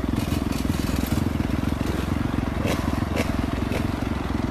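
Motorcycle engine running at steady revs, its rapid firing pulses going on without rising or falling.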